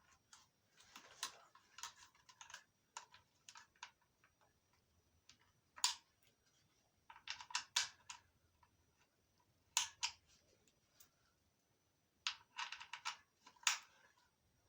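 Taps and clicks on a rifle: quick runs of several light taps alternating with single sharper clicks, with short quiet gaps between.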